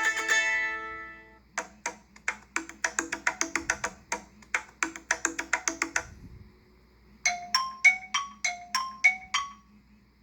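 A series of Apple iPhone 5S ringtone and alert sounds. A plucked tone fades out, then a quick rhythm of wooden-sounding clicks runs for about four seconds, and after a short pause comes a quick run of about eight short pitched notes.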